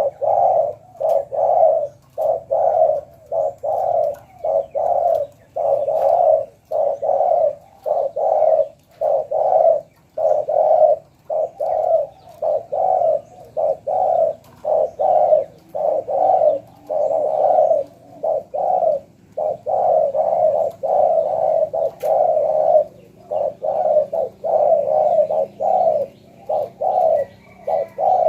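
Spotted dove cooing over and over, a long unbroken run of short low coos at about three every two seconds.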